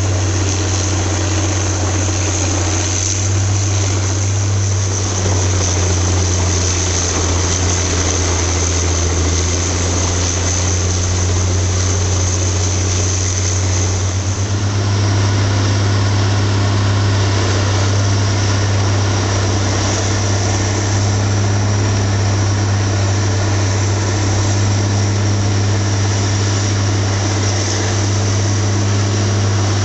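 Engine running at a steady speed, a continuous low hum with a high whine over it; the hum shifts slightly about halfway through.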